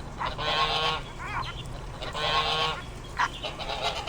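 Swans honking: two longer nasal honks with shorter calls between them.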